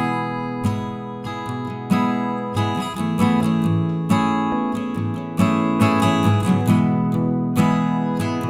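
Background music: acoustic guitar strummed chords, a new strum about every second.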